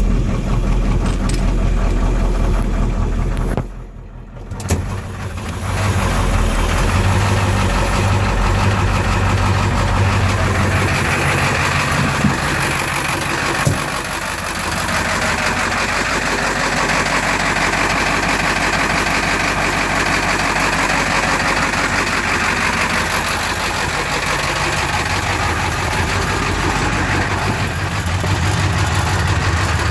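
Ford 7.3-litre IDI V8 diesel in a 1991 F-250 cold-starting at about 10°F without its block heater. The sound drops away briefly about four seconds in, then the engine runs on at a steady cold idle.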